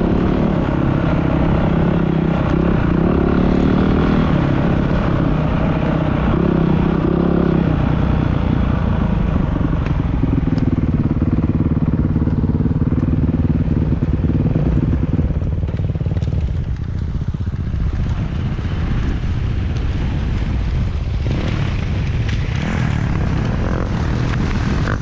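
Off-road motorcycle engines running and revving. The engine note drops about seven and a half seconds in and fades after about sixteen seconds.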